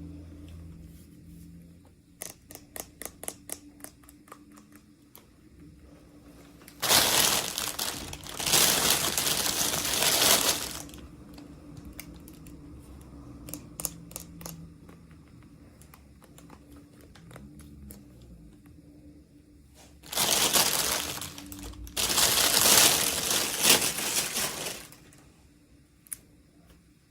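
Plastic toy packaging being handled and torn open: a few seconds of small clicks and taps, then two long stretches of loud crinkling, about 7 and 20 seconds in.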